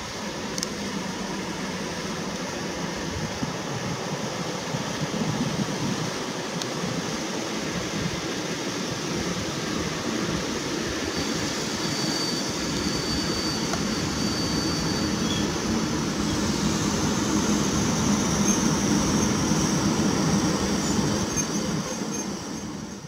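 PKP EP08 electric locomotive hauling Intercity coaches rolling slowly into a station and braking, the rumble of wheels on rail growing louder as it nears. Thin high wheel and brake squeals come in midway and again near the end.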